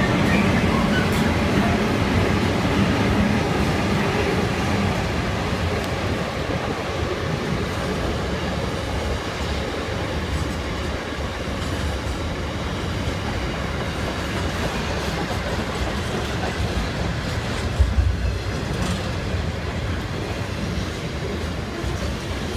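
Container wagons of a long intermodal freight train rolling past, a steady rumble of wheels on rail with clickety-clack over the rail joints, slowly easing in loudness. One sharp louder clank about 18 seconds in.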